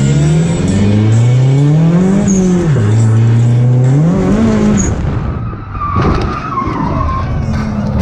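Drift car's engine revving hard, its pitch climbing and dropping several times, then about six seconds in a sudden sharp knock followed by tires squealing for about a second.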